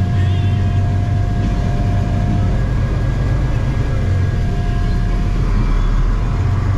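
Truck driving on the road: a steady low drone of engine and road noise with a faint steady whine above it.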